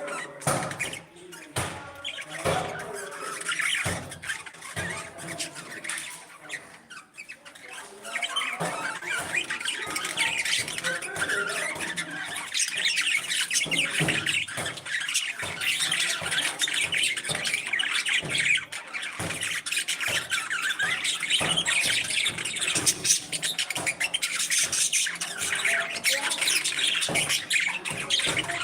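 Parrots squawking and chattering, many short overlapping calls; about eight seconds in the calling thickens into a dense, louder flock chatter that continues.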